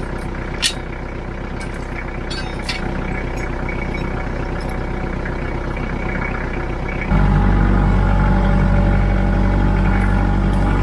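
Engine running steadily, with a sharp click just under a second in; about seven seconds in it steps up louder and stays there.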